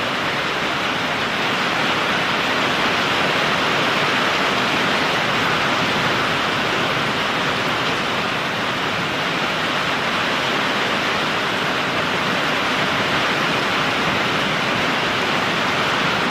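Heavy rain pouring steadily in a thunderstorm, an even, unbroken hiss.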